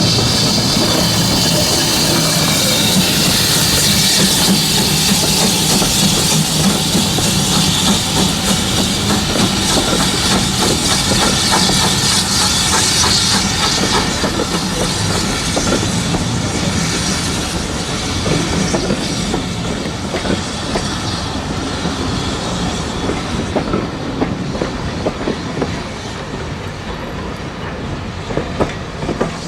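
Steam-hauled train rolling over a level crossing, its wheels clattering in quick clicks over the rail joints, with a light hiss. It fades gradually through the second half as it draws away.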